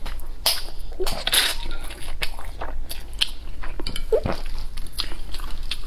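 Close-up eating sounds: biting and chewing food, with many short wet clicks and smacks.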